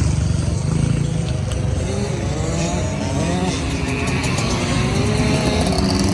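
Honda CRF110 dirt bike's small single-cylinder four-stroke engine running, its revs rising and falling as it is ridden, loudest at the start.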